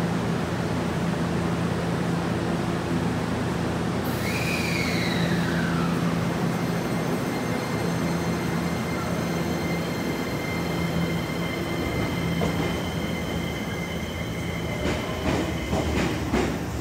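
Electric train at a station platform: a steady low hum, then about four seconds in a whine that falls in pitch over two seconds, followed by steady high-pitched tones. Several clicks or knocks near the end.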